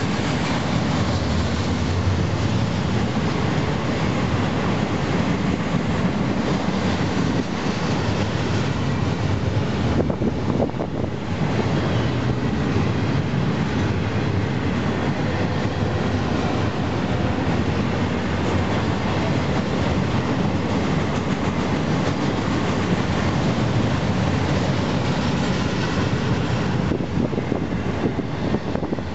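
Double-stack container well cars of a freight train rolling past: the steady noise of steel wheels running on the rails.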